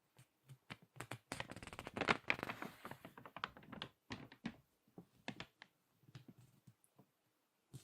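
Crinkly magazine pages crackling as they are squeezed and turned: a dense run of crackles from about one to three seconds in, then scattered sharper crinkles and taps.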